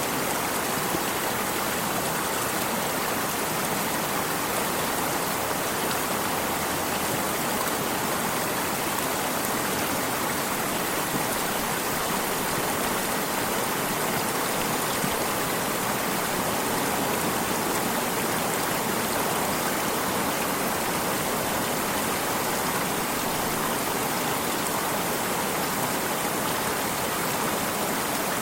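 Water of a stream flowing, a steady even noise with no pauses or changes.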